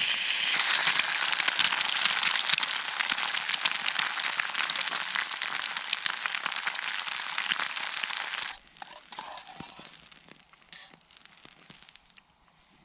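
Dense, steady crackling that cuts off suddenly about eight and a half seconds in, leaving only faint scattered ticks.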